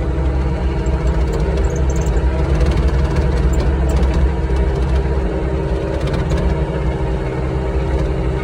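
Engine of old earthmoving equipment running steadily at work.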